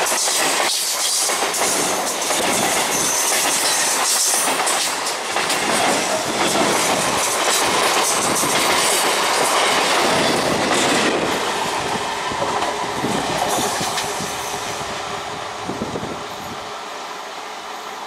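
Suburban EMU electric local train passing close at speed: a loud rush of wheels on rails with repeated clatter over the rail joints. It fades steadily over the last several seconds as the rear coaches go by.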